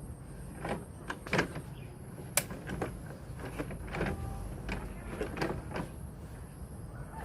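Plastic toy vehicle parts being handled and fitted together: irregular clicks and short scrapes, with one sharp click about two and a half seconds in.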